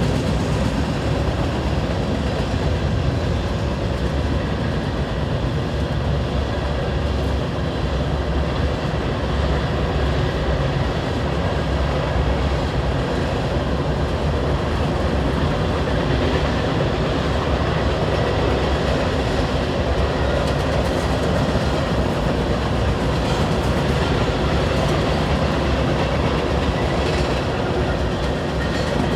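Freight train of hopper cars rolling past, a loud, steady rumble of steel wheels on the rails.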